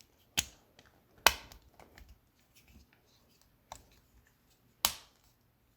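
Plastic back cover of a GM flip key fob being pressed onto the fob and clicking into place: three sharp clicks, two in the first second and a half and one near the end, with faint handling ticks and rustling between.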